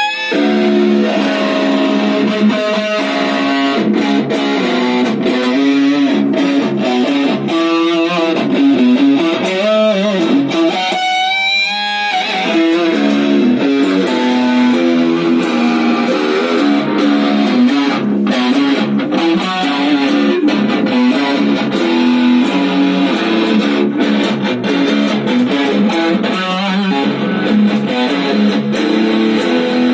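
Custom electric guitalele being played, a steady run of plucked notes and chords, with wavering, bent notes about ten seconds in.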